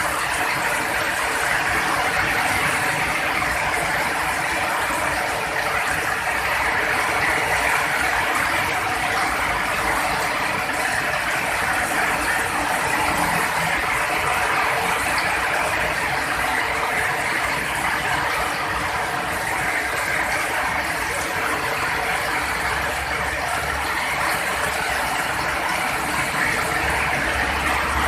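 Heavy rain pouring steadily in a dense, even hiss. A low rumble comes in about two-thirds of the way through and grows louder near the end.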